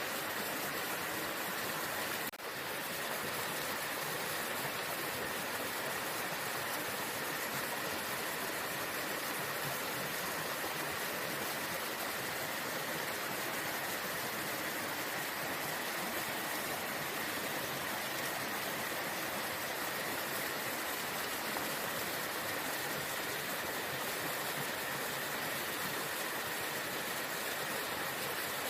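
Waterfall: a steady, even rush of falling water, with one brief dip about two seconds in.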